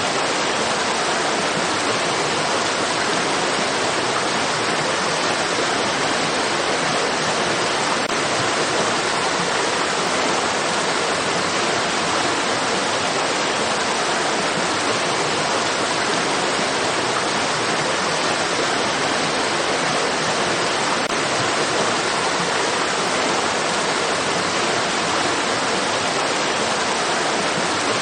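Flowing stream water rushing steadily, an even hiss that does not change.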